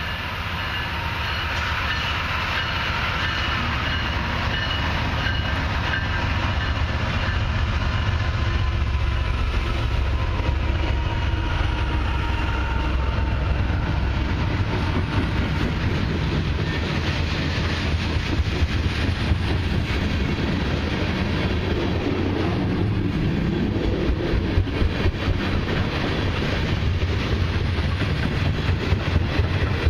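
Two CN diesel freight locomotives passing with a deep engine rumble and a steady whine, followed by a long freight train's cars rolling by, wheels clicking rapidly over the rail joints.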